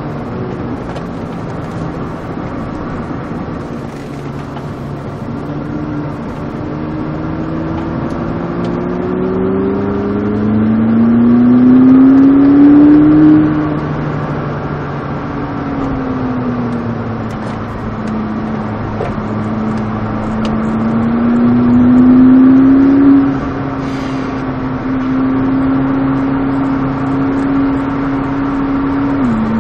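McLaren sports car engine under hard track driving, heard from inside the cabin: it climbs in pitch twice under acceleration, loudest at the top of each pull, then falls away as the car slows. Near the end the note steps sharply down, a gearshift.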